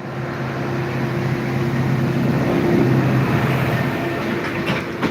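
A motor vehicle running close by: a steady engine hum under rushing noise that grows louder to a peak in the middle, then fades.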